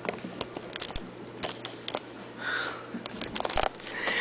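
Irregular light clicks and knocks of small objects being handled, over a steady low hum.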